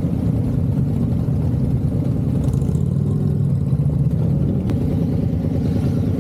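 Motorcycle engine running steadily on the move, a low, fast-pulsing exhaust note.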